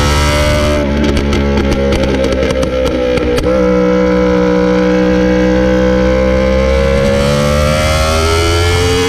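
Motorcycle engine running hard at high revs, with a rough, crackling stretch of quick pops from about one to three and a half seconds in, then a steady note that climbs slowly in pitch near the end.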